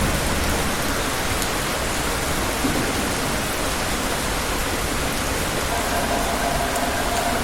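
Steady rain falling, an even, continuous hiss of raindrops.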